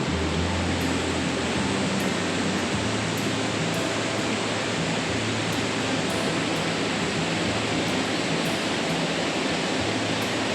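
Steady, even rushing noise with low notes of background music stepping underneath.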